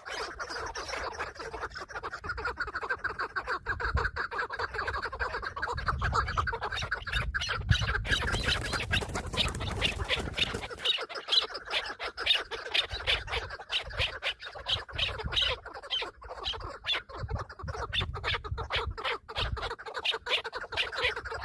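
Chukar partridge calling: a long run of rapid, repeated clucking notes, with low rumbling noise coming and going underneath.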